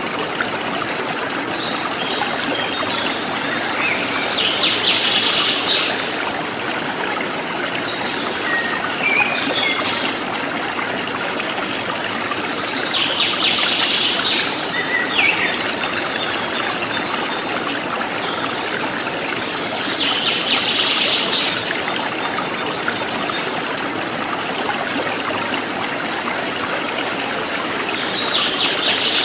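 A forest stream trickling steadily, with a wild bird repeating a short burst of rapid high notes every few seconds.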